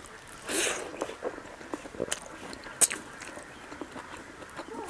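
Close-up eating sounds: a mouthful of rice and omelette, eaten by hand, being bitten and chewed, with wet smacks and sharp mouth clicks, the loudest a little under three seconds in. A short noisy rush comes about half a second in as the food goes into the mouth.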